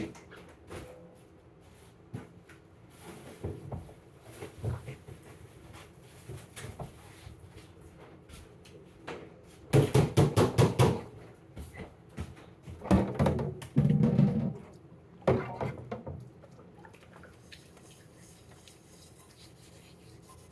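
Kitchen clatter of things being handled and set down: scattered light knocks, a quick run of about six sharp knocks around ten seconds in, and a few heavier thuds shortly after.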